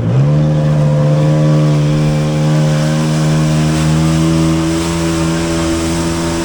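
Jet ski engine revving up right at the start as the throttle opens, then running at high revs with a steady whine that creeps slightly higher.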